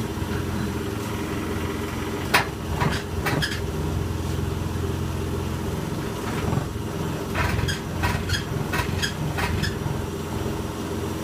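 Electrolux W455H commercial washing machine running with a steady hum, broken by sharp rattling knocks: a few about two and a half seconds in, then a quicker cluster of them a few seconds later.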